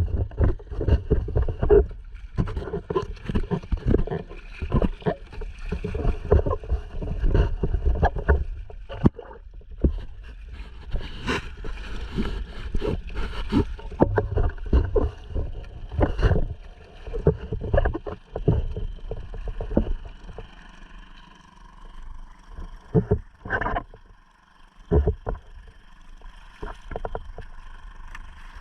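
Water splashing and slapping against a sea kayak's hull, with wind buffeting the microphone, over the faint steady hum of a Honda 2.3 four-stroke outboard motor. The splashing eases off about two-thirds of the way through, leaving a few separate splashes.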